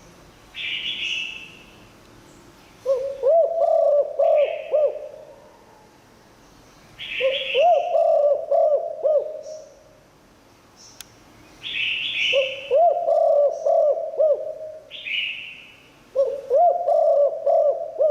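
Spotted dove singing: four cooing phrases of several quick rolling notes, each about two and a half seconds long and roughly four seconds apart. A short, higher call repeats in between the phrases.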